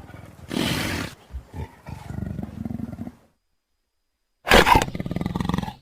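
Indian leopard calling: a harsh, pulsing call about half a second in that lasts a little over two seconds, a second or so of silence, then another call that begins loud and trails off near the end.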